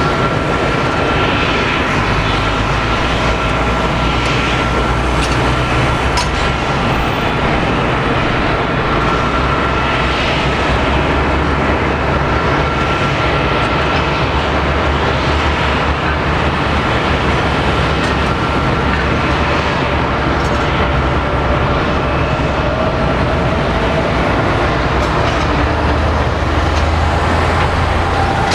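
Boeing 777-200 jet engines running at low power: a steady high whine over a broad, continuous rumble, with a second tone rising slowly near the end.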